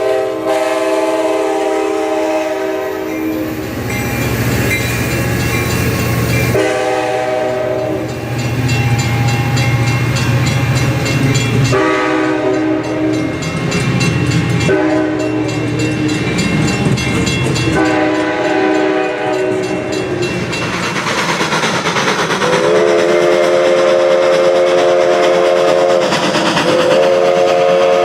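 Train horn sounding a multi-note chord in repeated blasts of one to a few seconds, over the low rumble of a running train. In the last several seconds a steady hiss joins and the horn holds longer, dipping in pitch once.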